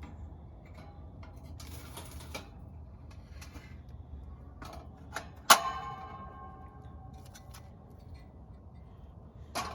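Scattered small clicks and light knocks of objects being handled, with one sharp metallic clink about halfway through that rings briefly, over a low steady rumble.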